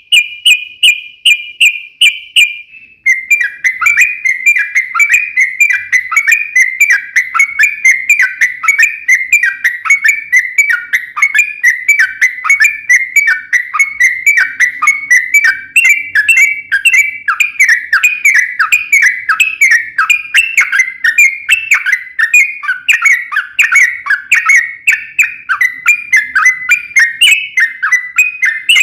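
Yellow-vented bulbul (trucukan) singing a long, fast unbroken run of chirping notes, several a second, after a held whistled note for the first few seconds.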